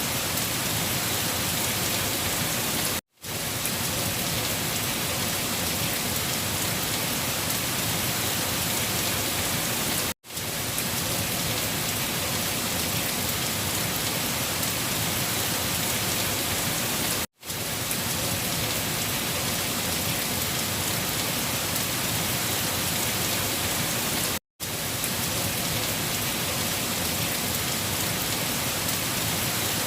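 Steady heavy rain falling on a surface, an even hiss that cuts out to silence for a split second about every seven seconds, four times.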